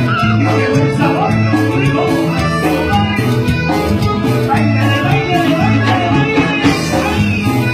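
Latin dance-band music in a salsa-like style, with a steady bass line under melody instruments.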